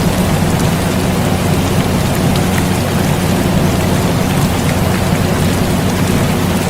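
Steady rain with scattered drop ticks, mixed with the constant low hum of an air conditioner.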